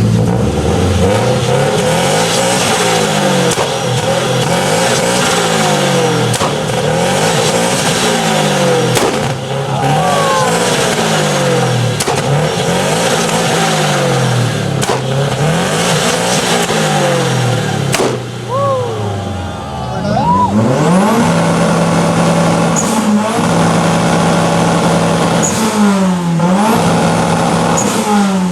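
Car engine revved hard over and over, the pitch climbing and falling about every two seconds, with a few sharp exhaust cracks. About twenty seconds in it is held at a steady high rpm, bouncing on the two-step launch limiter.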